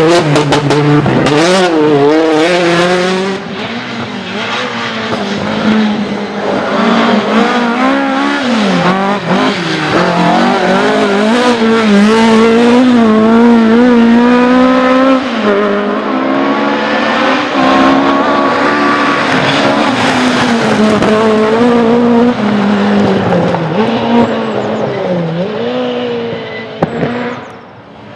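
Rally cars' engines revving hard at full throttle, the pitch climbing and dropping again and again through gear changes and braking, with tyre squeal. Near the end the engine note fades as the car pulls away.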